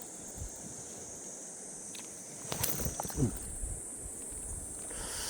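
A steady, high-pitched chorus of insects, with a few knocks and splashy steps from wading in a stream about halfway through.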